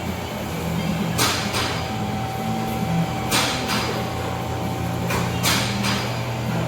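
Fine-tooth 1/4-inch drive ratchet clicking as a compressor mounting bolt is backed out, in short bursts of two quick strokes about every two seconds.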